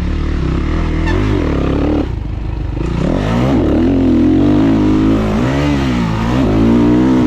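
Dirt bike engine revving up and down as the throttle is worked, its pitch rising and falling several times, with a short drop in power about two seconds in before it picks up again.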